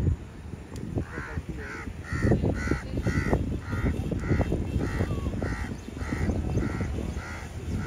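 A bird calling over and over, about two short calls a second, with low rumbling noise underneath.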